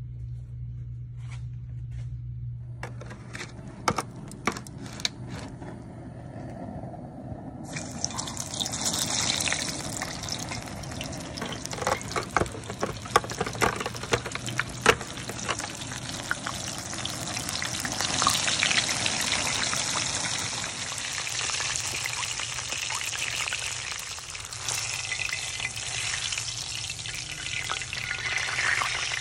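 A low hum with a few soft clicks, then about eight seconds in a steady, crackling sizzle starts and runs on: whole tilapia frying in hot oil. Sharp clicks of metal tongs come around the middle.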